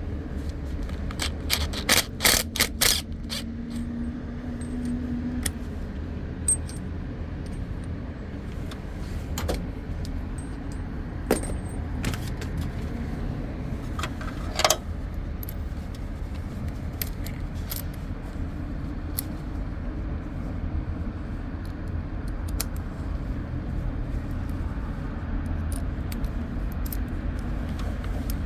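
Scattered small metallic clicks and jingles of hand tools and hardware being handled, a quick cluster near the start and one sharp click about halfway through, over a steady low rumble.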